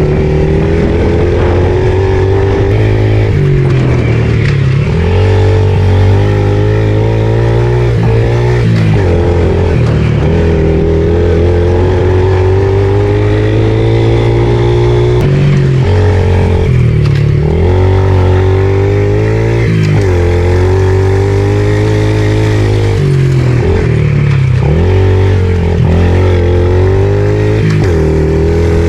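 Pit bike engine being ridden hard around a dirt track, revving up and dropping off over and over as the throttle is opened and chopped for corners and jumps.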